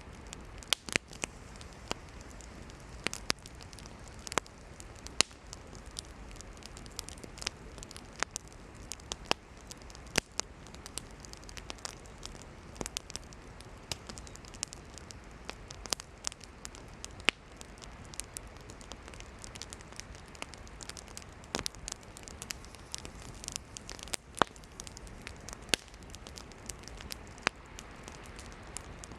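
Campfire of burning firewood crackling over a steady low hiss, with irregular sharp pops, a few of them much louder than the rest.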